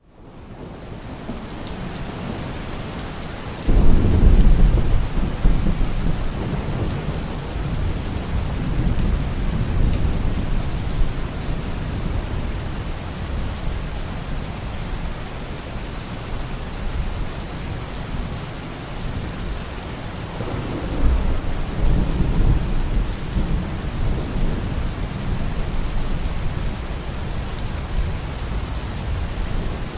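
Steady heavy rain with rolling thunder: a loud low crack of thunder about four seconds in that rumbles away over several seconds, and a second roll about two-thirds of the way through.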